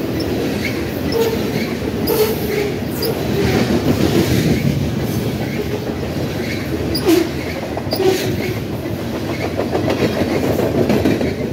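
Covered hopper cars of a freight train rolling past: a steady rumble of steel wheels on rail, with irregular clicks as the wheels cross rail joints. Two sharper knocks come about seven and eight seconds in.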